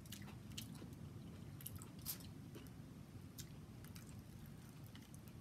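Faint wet chewing and lip-smacking of saucy seafood close to the microphone, with scattered small mouth clicks and one sharper click about two seconds in.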